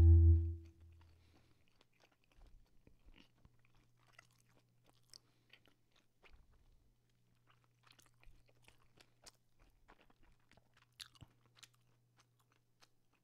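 Close-miked chewing of Icelandic hanged meat (hangikjöt, smoked lamb): faint, scattered wet mouth clicks and smacks. A short music chime dies away in the first second, and a faint low hum runs underneath.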